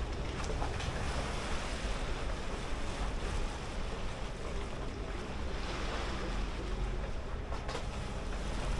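Sea water washing along the hulls of a sailing catamaran under way, with wind buffeting the microphone; a steady wash of noise with a low rumble.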